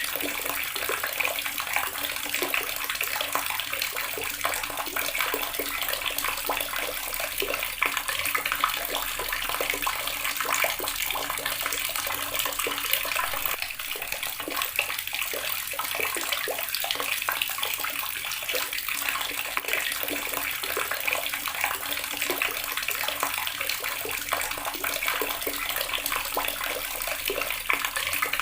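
Water tap running steadily, a continuous stream splashing into a basin with a fine crackling splash.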